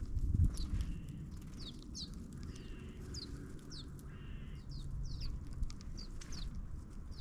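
Wild birds calling: a run of short, sharp, downward-slurred chirps, roughly two a second, with a few longer buzzy notes among them. A low rumble runs underneath.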